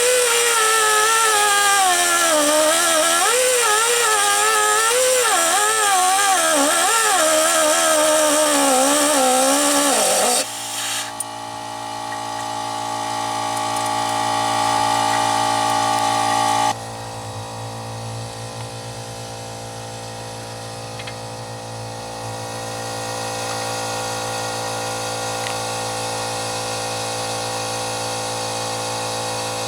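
Pneumatic cutting tool whining as it cuts through a seized exhaust manifold stud nut, its pitch wavering up and down under load. About ten seconds in, the sound changes abruptly to a quieter, steady whine with level tones, changing again a few seconds later.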